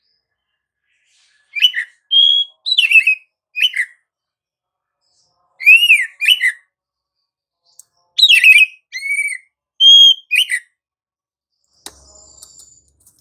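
Oriental magpie-robin (kacer) singing loud, clear whistled phrases with quick upward and downward sweeps. The song comes in three short bursts with brief pauses between them, and a faint click follows near the end.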